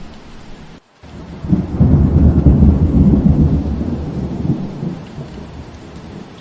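Steady rain with a deep roll of thunder that swells about a second and a half in and dies away over the next few seconds. Just before it, the sound drops out for a split second.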